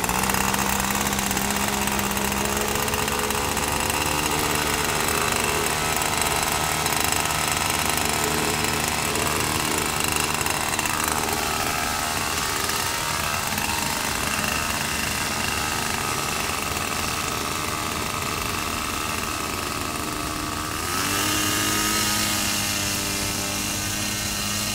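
Small engine driving the air propeller of a homemade swamp boat (airboat), starting up sharply and then running steadily with a buzzing drone. Near the end the engine speeds up and gets a little louder.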